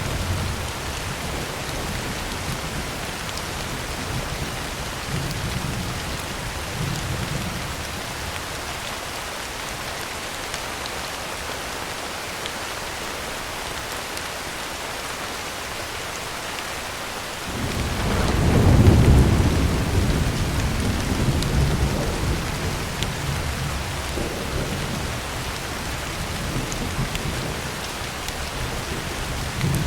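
Heavy rain falling on a tin roof as a steady hiss, with low thunder rumbling at first and dying away. About seventeen seconds in, a loud clap of thunder breaks and rolls on for several seconds before fading.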